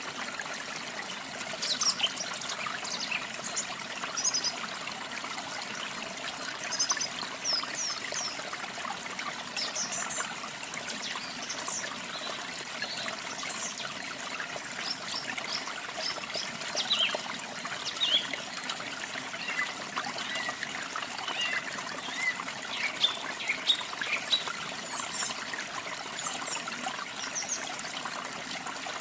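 Water trickling and splashing steadily, with small songbirds giving many short, high chirps scattered throughout.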